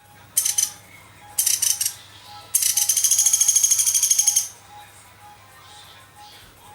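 Young pelatuk beras, a small woodpecker, calling in rattling trills of rapid, even, high notes: two short trills, then a long one lasting nearly two seconds.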